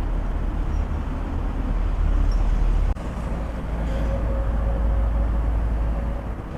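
Steady road traffic on the highway below, cars and buses running by, with a heavy low rumble. The rumble changes abruptly about three seconds in.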